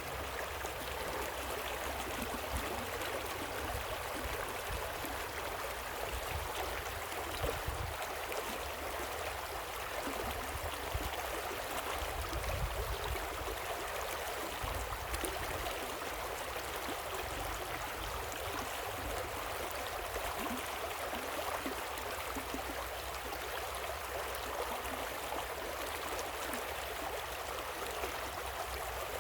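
Waterfall and river water rushing steadily in an even hiss, with a deep low rumble that swells and fades now and then.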